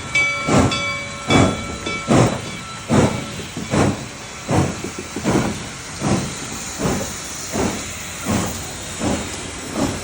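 Steam locomotive chuffing under way, its exhaust beats coming steadily about once every three-quarters of a second with a hiss of steam. A steady high tone from the start dies away about two seconds in.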